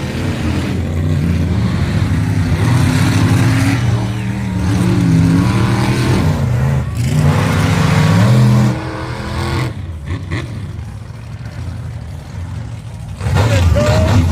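Monster truck engine revving hard, its pitch rising and falling, then dropping away sharply about two-thirds of the way through; a loud burst of revving returns near the end.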